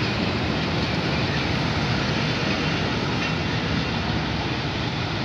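Passenger train coaches rolling past close by as the train pulls out: a steady noise of wheels running on the rails.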